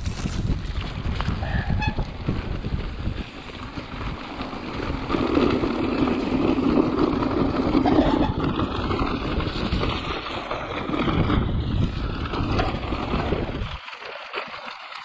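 Wind buffeting the camera microphone on a moving mountain bike, a rough irregular rumble over a steady rushing noise of the ride down the trail; the low rumble drops away suddenly near the end.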